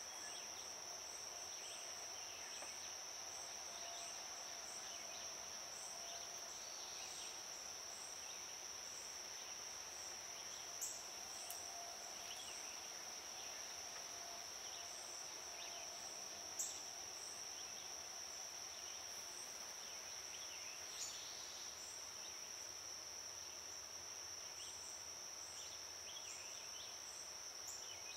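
Steady, high-pitched insect chorus running throughout, with a faint regular pulsing chirp above it. Three sharp clicks stand out: about a third of the way in, just past halfway, and about three quarters through.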